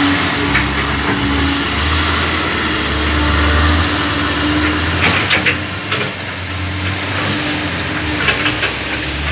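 Heavy diesel engine running steadily under load, with a deep low hum throughout.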